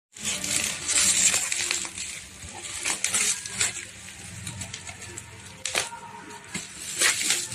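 Irregular light clinks and clatter of small hard objects being handled, with rustling in between.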